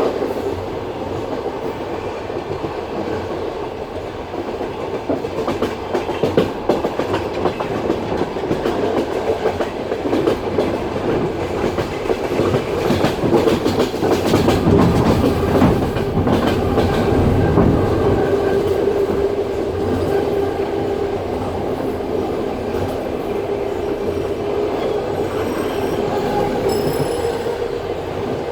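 Passenger train wheels running along the track at speed, rumbling and clattering over the rail joints. About halfway through, a steady humming tone rises above the rumble, and faint high whistling tones come in near the end.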